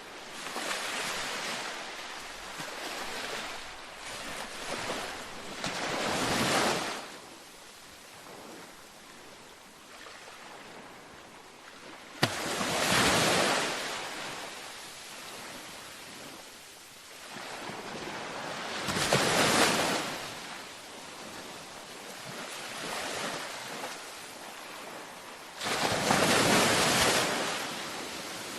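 Ocean waves breaking on a beach. The surf swells and washes back, with four louder breakers about six and a half seconds apart and softer wash between them.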